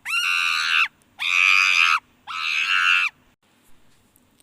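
Monkey calling: three loud, high-pitched shrieks, each about a second long and dropping in pitch at the end.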